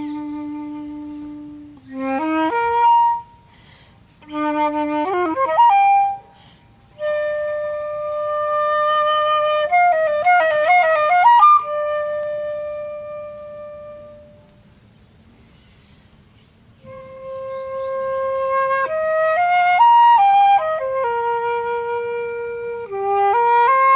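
Solo flute playing a slow melody: long held notes broken by quick, rippling runs, with short pauses between phrases.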